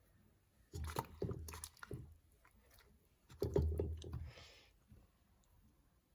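Close-up chewing and biting of boiled tuber, in two bursts: one about a second in and one near the middle.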